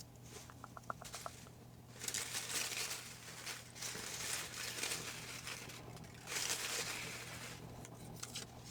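Slips of paper rustling and crinkling in a hat, in three bursts of a second or two each, after a quick run of faint ticks near the start.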